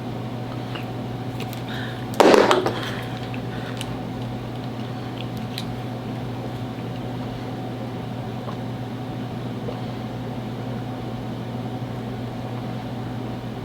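Steady low room hum, with a few faint clicks and one short, loud burst of breath from a person about two seconds in.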